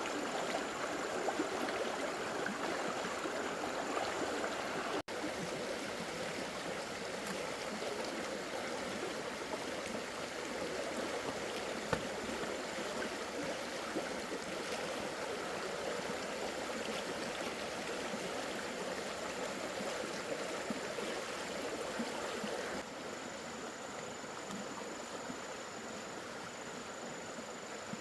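Steady rushing of water, with a faint thin high tone above it. The sound shifts abruptly twice, about five seconds in and near the end.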